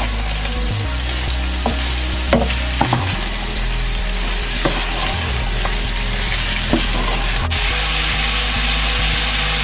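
Beetroot strips and ginger-garlic paste sizzling as they fry in hot mustard oil in a metal pot, stirred with a wooden spoon, with a few short scrapes and knocks of the spoon against the pot.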